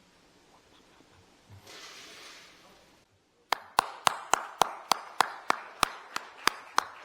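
Steady rhythmic hand clapping, about three claps a second, starting about halfway through after a brief rustle.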